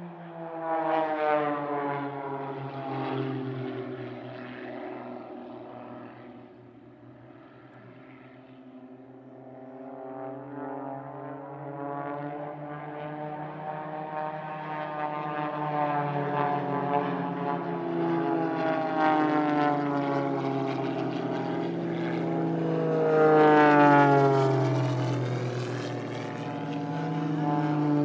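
Propeller airplanes flying past low, their piston-engine drone rising and falling as they pass, the pitch dropping after each pass. One passes about a second in; the drone builds again from about ten seconds, and the loudest pass comes near the end.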